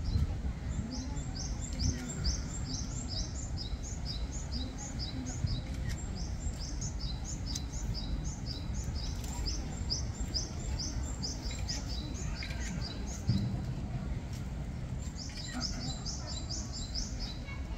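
A small bird chirping rapidly and over and over, about three or four short, high chirps a second. It breaks off for a few seconds after the middle and starts again near the end, over a low, steady rumble of outdoor background noise.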